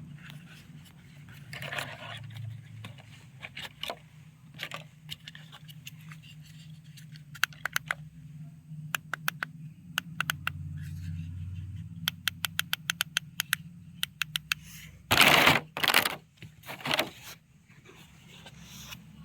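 Handling of a plastic toy and its packaging: many sharp plastic clicks and scrapes, some in quick runs, with loud rustling bursts about fifteen and seventeen seconds in.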